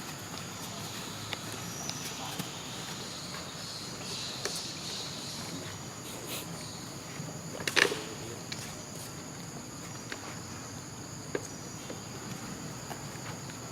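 Steady high-pitched insect drone, like crickets or cicadas, with scattered faint clicks and one loud sharp crack or snap about eight seconds in.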